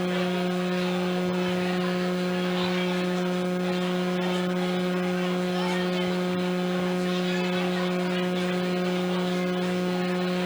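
A steady low-pitched hum with a few overtones, unchanging, over a faint hiss.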